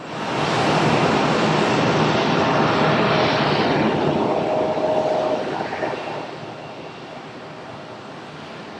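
Jet airliner's engines, a loud rushing noise that comes in suddenly, holds for about five seconds with a faint steady whine under it, then fades away as the aircraft passes.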